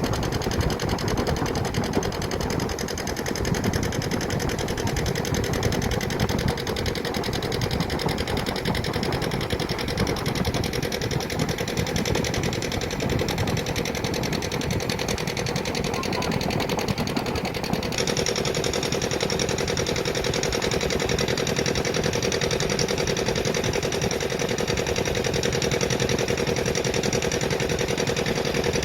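A small motor running steadily with a fast, even rhythmic clatter. The sound changes abruptly about 18 seconds in.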